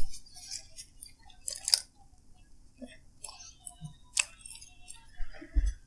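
Eating sounds from a mukbang meal: quiet chewing with scattered small clicks and rustles of food and packaging, and a low thump near the end.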